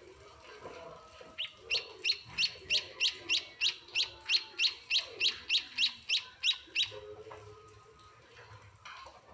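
Munia (emprit) chick giving a rapid run of short, high begging chirps, about three a second for some five seconds, the calls of a chick being hand-fed.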